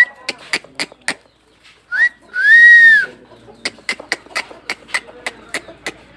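Whistling: a short rising note, then one long whistle that rises slightly and falls away, set amid a rapid run of sharp clicks.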